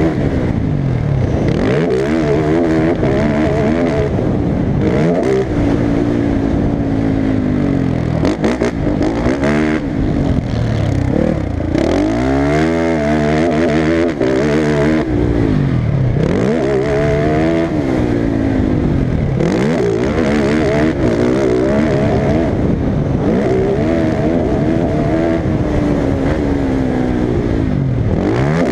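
Motocross engine, loud and continuous, revving up and dropping back over and over as the throttle is worked and gears change around the track.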